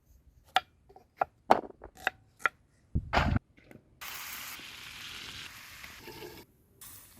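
A handful of sharp knife strokes on a board, then a heavier thud about three seconds in. After that comes a couple of seconds of steady sizzling, as of food frying in hot oil.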